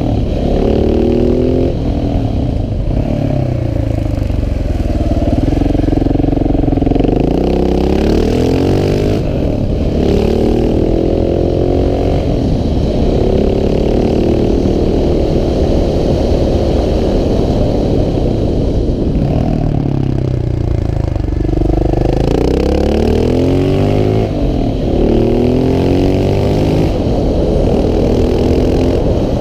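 KTM 690 SMC R's single-cylinder engine pulling hard, its pitch climbing again and again through the gears with short drops at each shift. Twice it winds down slowly as the bike slows before picking up again.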